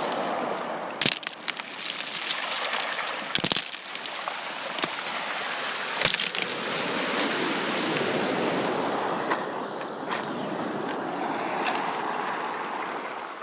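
Sea waves washing onto a beach: a steady rush of surf broken by sharp crackles and splashes, dying down near the end.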